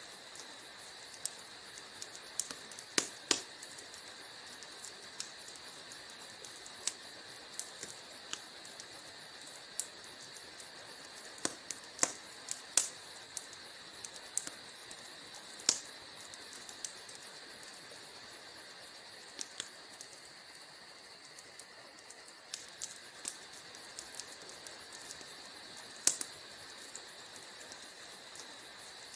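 Wood fire crackling in a fireplace: a steady hiss with irregular sharp pops and snaps. The loudest pops come about three seconds in, around twelve to sixteen seconds, and once more near the end.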